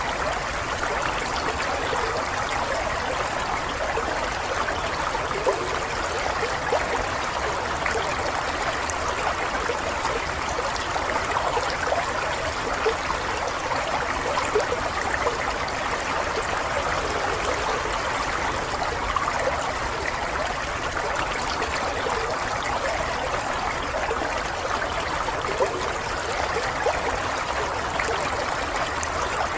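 Running water of a small stream or brook, flowing and trickling steadily with little splashes.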